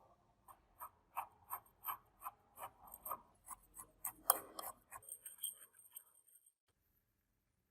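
Repeated hand rubbing strokes on rusty metal, about three a second, the loudest a little past the middle. They stop about two-thirds of the way through.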